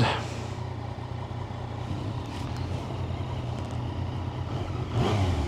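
Motorcycle engine idling steadily, a low even hum, with a brief swell in the noise near the end.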